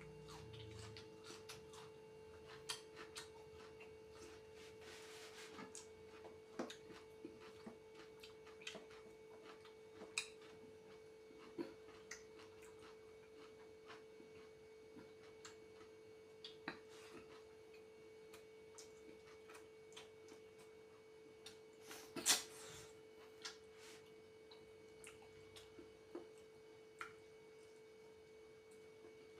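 Quiet eating sounds: scattered small clicks and taps over a steady hum, with one sharper click about 22 seconds in.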